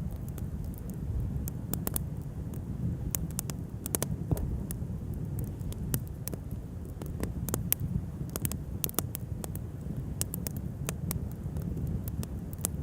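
Wood bonfire crackling, with sharp pops at irregular moments throughout over a steady low rumble.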